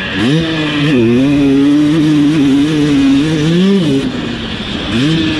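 Husqvarna TC250 single-cylinder two-stroke motocross engine under load: it revs up right at the start and holds a fairly steady pitch with small throttle wobbles. It rises briefly, then drops off the throttle near four seconds in, and revs up again near the end.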